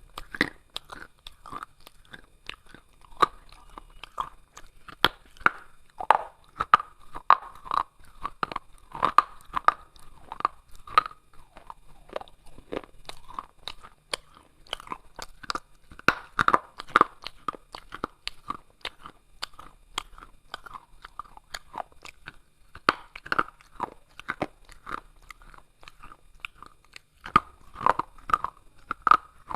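A person biting and chewing crunchy pieces of baked clay pot, close to the microphone: sharp, irregular crunches, several a second, with no pause.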